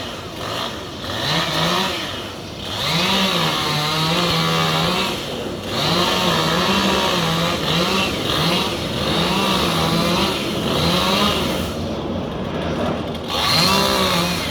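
Gas chainsaw running at high revs, its pitch repeatedly rising and sagging as it works through wood, with short drops in revs about two, five and twelve seconds in.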